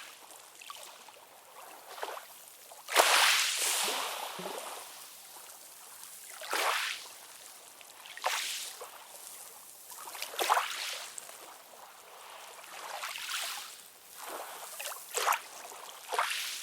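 Small sea waves lapping and splashing in irregular surges every second or few, the loudest about three seconds in, with a steady hiss of water between them.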